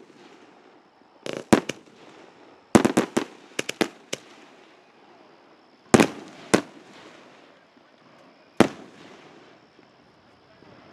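Consumer fireworks exploding: sharp bangs, each with a short echoing tail, including a rapid string of about seven between three and four seconds in, then single bangs spaced a second or two apart.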